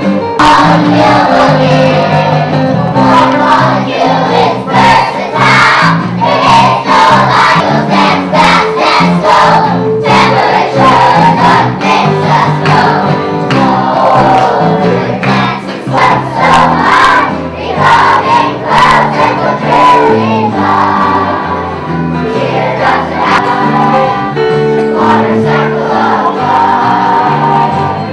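A choir of young children singing a song together, accompanied by guitar.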